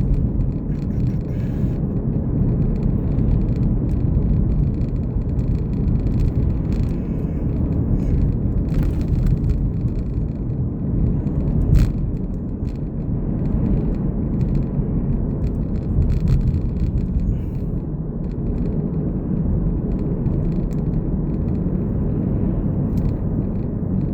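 Steady low road and engine rumble of a car driving, heard from inside the cabin, with one sharp knock about halfway through.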